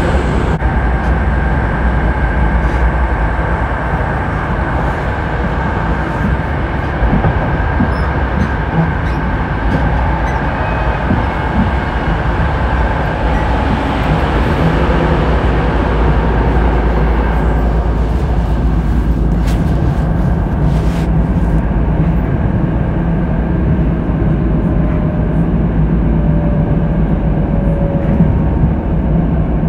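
Koleje Dolnośląskie regional train heard from inside the passenger car, running at speed with a steady rumble. Near the end a faint tone slowly falls in pitch as the train slows.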